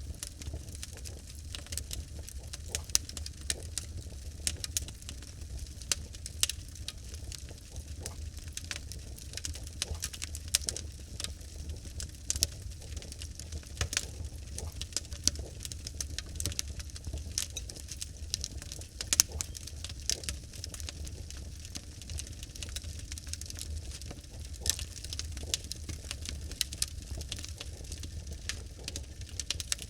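Logs burning in a fireplace, crackling with frequent irregular sharp pops and snaps over a steady low rumble of the flames.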